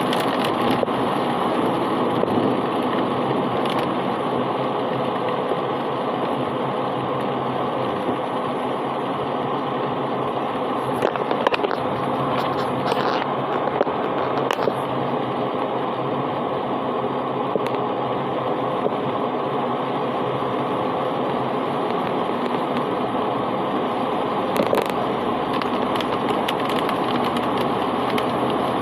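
Heavy, unbroken rain: a steady, even rush with scattered sharp ticks.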